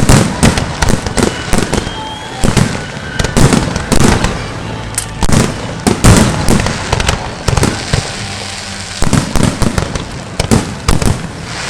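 Aerial firework shells bursting in rapid succession: a dense barrage of sharp bangs, several a second, with crackling between them.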